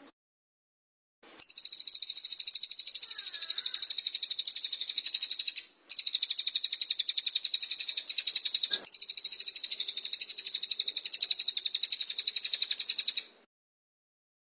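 A bird's rapid, even, high-pitched trill, repeated for about twelve seconds with two very short breaks, as used in a bird-training recording.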